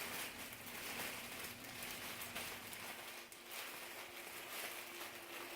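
Faint, irregular rustling and crinkling as hands handle a perm rinsing cap fitted over perm rods.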